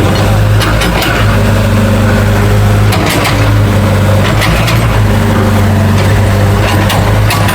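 Heavy diesel earthmoving machine's engine running steadily under load, with several short knocks scattered through it.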